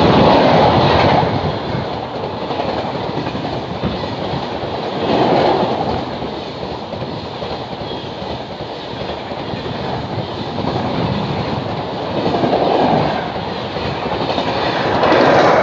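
Express passenger train running through a station at speed, close by: a continuous rush of wheels on rail with a clickety-clack, swelling louder every few seconds as the coaches go past.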